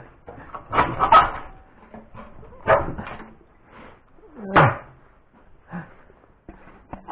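A dog barking: three loud barks about two seconds apart, then a softer one.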